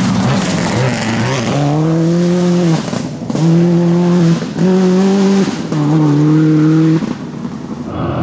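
Rally car at speed: a rushing noise first, then the engine held at high revs in four stretches of about a second each, broken by short drops between them.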